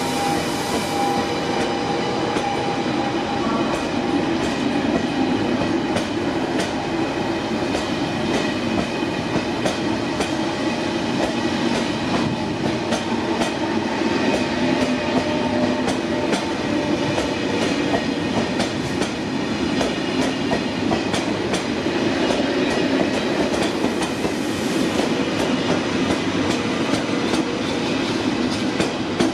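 TGV Duplex high-speed trainset moving through the station. Steady running noise with many sharp wheel clicks over rail joints and points. A steady high tone fades out in the first few seconds.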